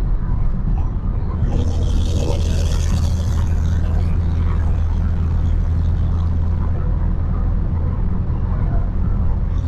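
BMW 335i's N55 turbocharged inline-six exhaust running with a steady, deep drone, picked up by a microphone on the exhaust. A hiss rises over it from about one and a half to four seconds in.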